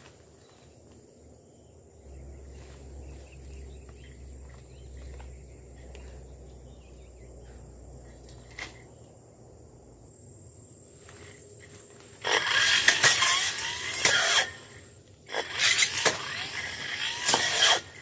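Undergrowth rustling and crackling loudly twice, for about two seconds each, after a quieter stretch with a low rumble.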